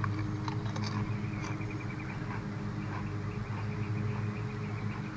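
Potato chips crunching as they are chewed close to the microphone, a few crisp crunches in the first second and a half, over the steady drone of a lawn mower engine running nearby.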